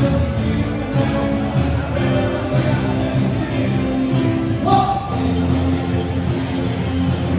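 Live band playing rock music with a steady beat.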